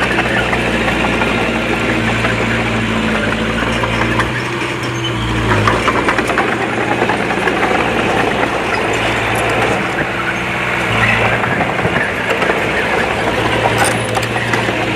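Diesel engine of earthmoving machinery running steadily, its note changing under load twice, with a few short knocks.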